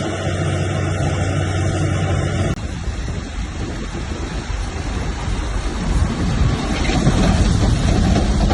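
Heavy diesel earthmoving machine running with a steady engine note. About two and a half seconds in the sound cuts abruptly to a rougher, noisier low rumble that grows slightly louder toward the end.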